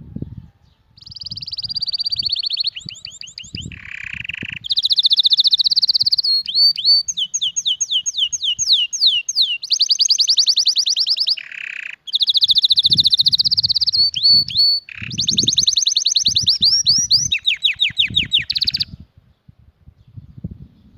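Domestic canary singing a long, loud song of rapid rolling trills and fast repeated sweeping notes. It runs for about eighteen seconds with two short breaks. Soft low thumps sound underneath.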